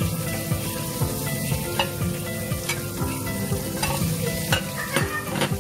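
Garlic, chili and spring onions sizzling in hot oil in a nonstick wok while a spatula stirs and scrapes across the pan, with a few sharp knocks of the spatula against the pan. In the second half the marinated spareribs go into the wok.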